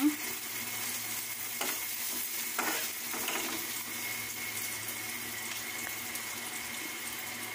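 Chopped garlic and onion sizzling steadily in hot oil in a frying pan, sautéed as the base for squid adobo, with a spoon stirring and scraping against the pan a few times in the first few seconds.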